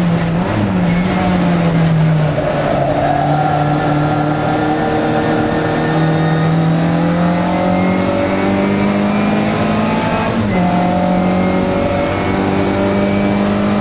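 1965 Morris Cooper S 1293cc four-cylinder engine running hard under racing load, heard from inside the cabin. The revs drop about two seconds in, climb steadily through the middle, and dip briefly and pick up again about ten seconds in.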